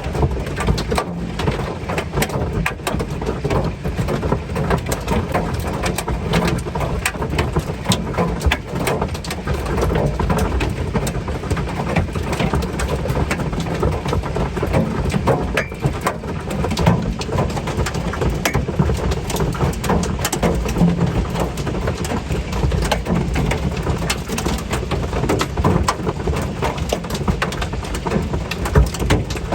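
Hail pelting the metal shell of a small vintage RV, heard from inside: a dense, unbroken clatter of hard impacts over a steady low drumming.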